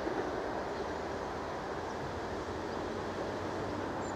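Rumble of a test train topped and tailed by Class 73 electro-diesel locomotives, running away into the distance and slowly fading.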